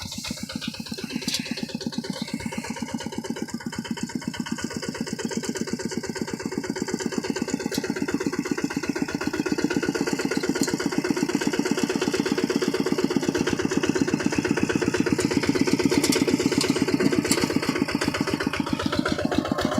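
Kubota RT155 single-cylinder diesel on a two-wheel hand tractor running with a steady, rapid firing beat that grows gradually louder.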